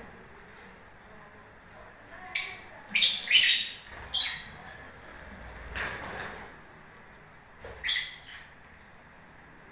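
Lovebirds calling with short, high-pitched chirps: a run of four calls from about two to four seconds in, then single calls near six and eight seconds.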